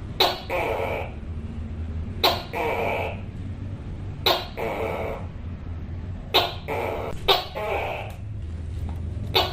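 Tokay gecko calling over and over, a call about every two seconds, with two calls close together near the end. Each call is a sharp click followed by a longer note of about half a second. A steady low hum runs underneath.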